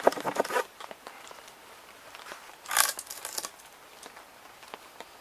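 Hand saw rasping through a piece of dry wood, stopping about half a second in. This is followed by scattered light clicks and one short crunch near the middle.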